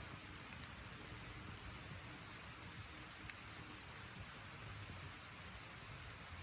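Wood campfire crackling: a steady soft hiss with a few sharp pops, the loudest about halfway through.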